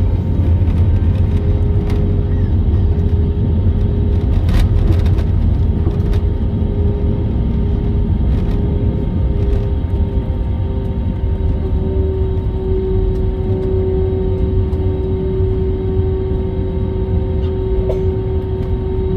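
Jet airliner cabin noise during landing: a steady low rumble of engines and airflow with a constant hum. A brief click or rattle sounds about four and a half seconds in.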